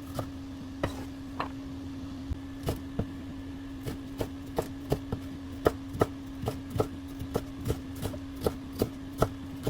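Kitchen knife slicing bell pepper into strips on a cutting board: a series of sharp taps of the blade on the board, sparse at first and then about two or three a second. A steady low hum runs underneath.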